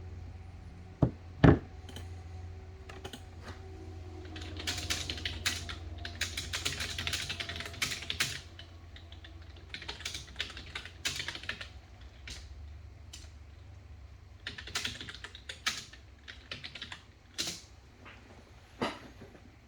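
Typing on a computer keyboard in irregular runs of quick clicks, over a steady low hum. Two sharp knocks come about a second in and another near the end.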